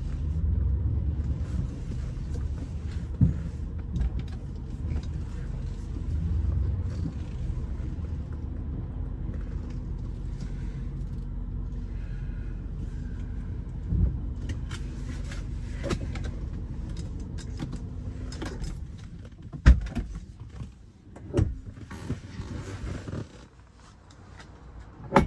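Car engine and road noise as the car creeps slowly into a parking spot. The rumble dies away about three-quarters of the way through, and a few sharp clicks and knocks follow.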